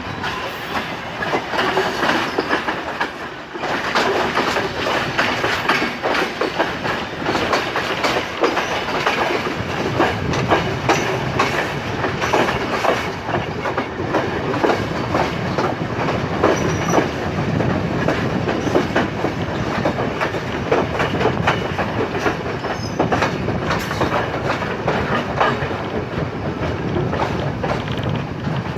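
Passenger train running, its wheels clattering and clicking over the rail joints.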